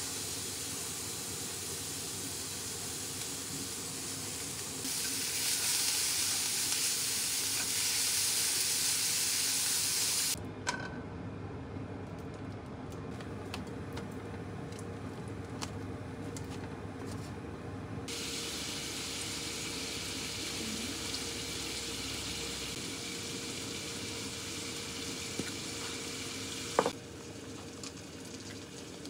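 Food sizzling in a frying pan: shredded cabbage frying, the hiss growing louder about five seconds in. After a sudden break to a quieter stretch with light taps, sizzling resumes as sliced lamb fries. A sharp click near the end.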